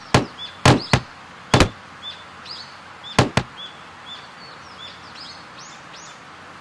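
A quick run of sharp knocks or clicks in the first two seconds, then two more just after three seconds in, over a steady outdoor hiss with small birds chirping again and again.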